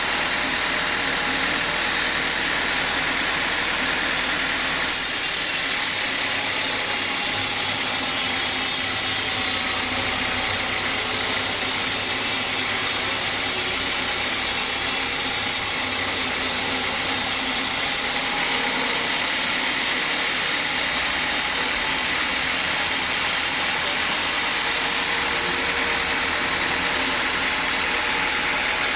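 Sawmill running steadily while sawing a teak log: a constant machine and engine noise, with the hiss growing brighter from about five to eighteen seconds in.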